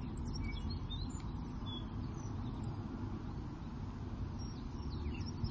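Outdoor ambience: scattered short, high bird chirps over a steady low background rumble.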